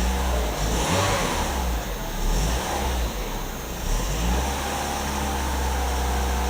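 2007 Holden Astra 1.8-litre four-cylinder petrol engine running. The revs vary for the first four seconds, then it settles into a steady idle.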